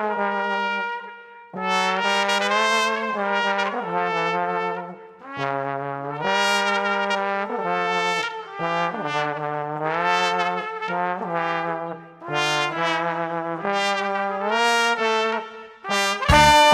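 Brass instruments led by a trumpet play a melody in short phrases with brief pauses. Near the end, louder full-band music with a beat comes in.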